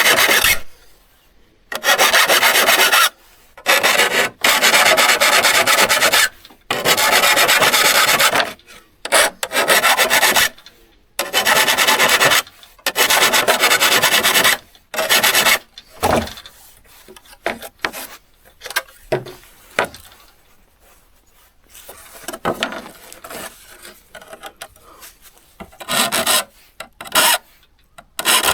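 Rasping hand strokes on a steel saw blade, each lasting a second or two with short pauses between. The strokes are fainter and more scattered through the middle, then loud again near the end.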